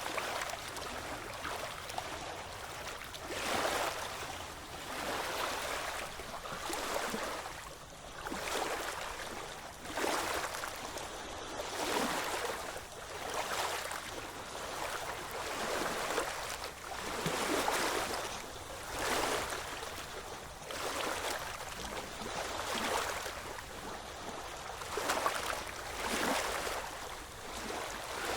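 Ocean waves washing in. The steady hiss of water swells and falls every couple of seconds.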